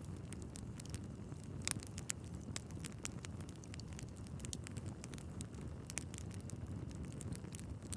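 Wood fire burning in a fireplace: a steady low rumble of flames with frequent sharp crackles and pops, two louder pops about 2 and 6 seconds in.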